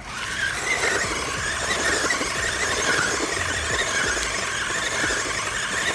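Electric RC monster truck driving hard on wet dirt: its motor and gears give a high whine that wavers in pitch, over a rough hiss of the tyres churning the ground. The sound cuts in and cuts off abruptly.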